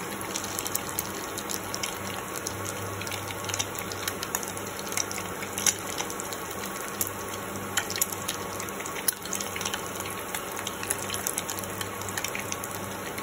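Egg pakoras shallow-frying in refined oil: a steady sizzle with scattered small pops and crackles.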